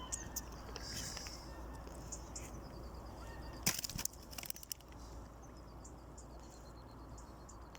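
Faint steady insect trill, a high pulsing note, over a low hum. About four seconds in comes a short burst of sharp clicks and rattling, the loudest sound here.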